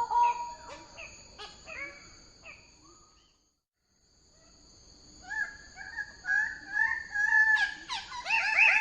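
Bird-of-paradise calling: loud, repeated, ringing call notes that fade out about three seconds in, then after a second of silence start again and build louder near the end.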